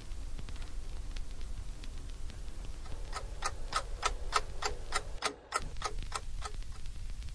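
Clock ticking fast and evenly, about three ticks a second, starting about three seconds in and stopping about three seconds later, over a steady low hum.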